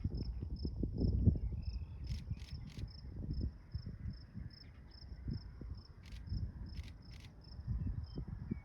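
An insect chirping steadily, a few short high chirps a second, with a few brief higher buzzes in two groups of three. Underneath, wind gusts rumble on the microphone.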